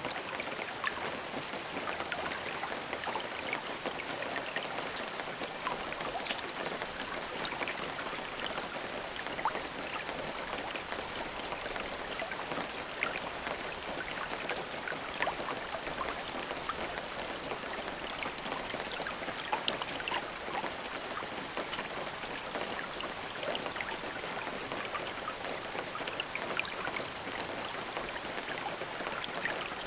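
Steady rain falling, a continuous hiss dotted with many individual drops pattering on surfaces.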